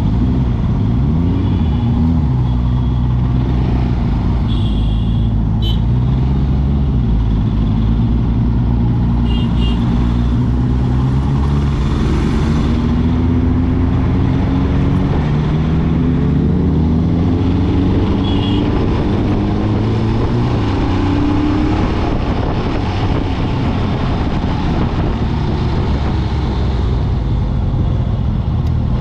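Motorcycle engine running while riding on the road, its pitch rising and falling repeatedly as it accelerates and eases off.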